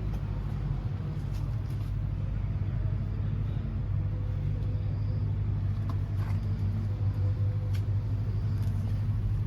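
Honda VFR800F's V4 engine idling steadily.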